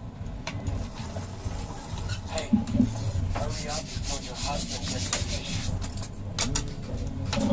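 Repeated rough scraping strokes on a hard surface, irregular in spacing, with voices talking in the background.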